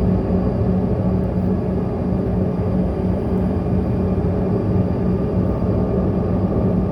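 A CRJ-200's rear-mounted General Electric CF34 turbofan engines running steadily, heard from inside the passenger cabin as a constant roar with a low hum.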